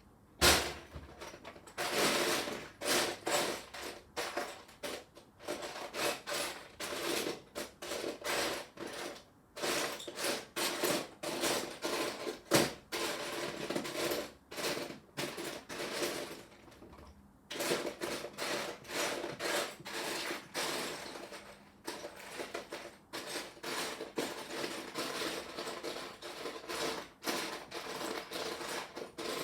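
Loose plastic Lego pieces clattering and clicking as a hand rummages through a pile of them, with a sharp clack just after the start and a brief lull about two-thirds of the way through.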